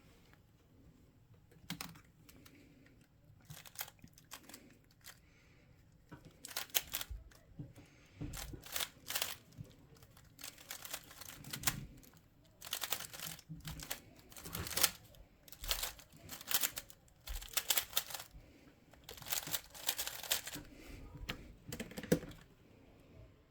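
Plastic speedcube being turned by hand: quick clicking and clacking of the layers, a few isolated turns at first, then dense flurries of rapid turns from about six seconds in.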